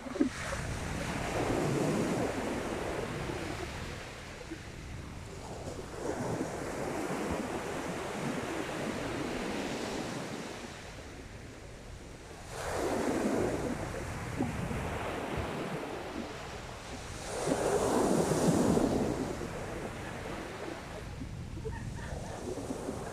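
Sea waves breaking and washing up the beach, a fresh surge every five to six seconds, the loudest one late on, with some wind buffeting the microphone.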